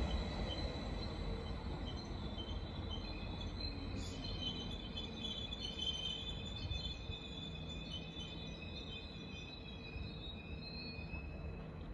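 Low rumble of a train fading away, with faint high chirps and thin held squealing tones over it for most of the stretch.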